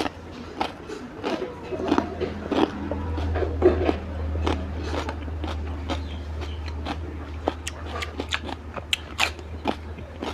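A man biting into and chewing raw cucumber slices: many crisp crunches in quick, irregular succession.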